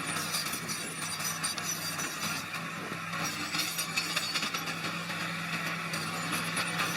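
Small crawler bulldozer's diesel engine running steadily under load, with a constant clatter and scrape of its tracks and the crushed stone it is pushing.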